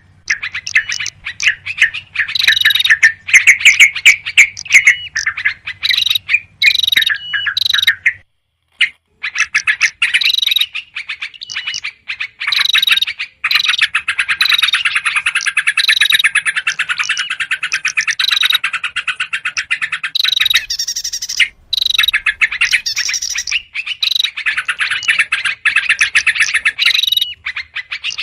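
Lure recording of small birds chattering rapidly and continuously, led by the noisy scolding calls of yellow-vented bulbuls mixed with other small songbirds, with a brief pause about a third of the way through.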